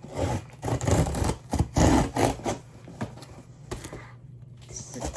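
Cardboard packaging being handled and opened: close rubbing and scraping with quick taps and clicks, busiest in the first two and a half seconds and then a few separate knocks.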